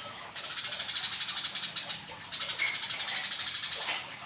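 Eurasian tree sparrow chattering: two bursts of rapid, high, buzzy notes, each about a second and a half long, with a short pause between them.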